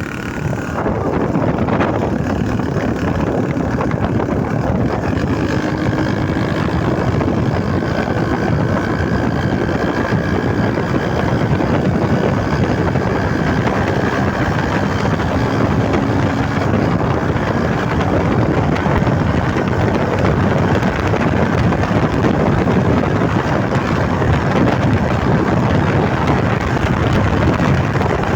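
Vehicle engine running through a modified ('operado') exhaust, a loud, steady exhaust note that holds with no breaks.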